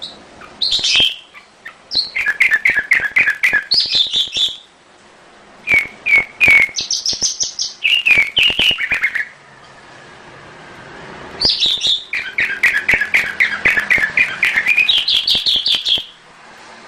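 Domestic canary singing in three bursts of song, each made of rapid rolling trills of quickly repeated notes that shift in pitch from phrase to phrase, with short pauses between the bursts.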